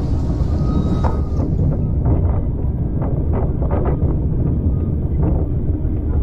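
Train running along the track: a steady low rumble with irregular clicks and knocks.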